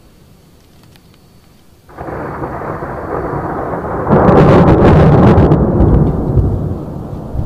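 Thunder from a nearby lightning strike: a sudden crash about two seconds in, swelling to a loud crackling peak and then rolling off into a fading rumble.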